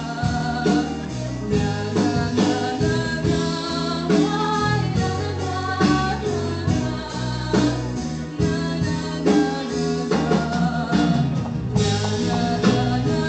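A solo female voice singing a song over a backing track with guitar and a steady beat.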